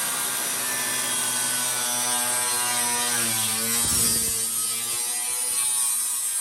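Electric angle grinder cutting through a car's sheet-metal body panel: a steady high-pitched motor whine with a harsh hiss of the disc on the metal. The pitch sags briefly near the middle as the blade bites.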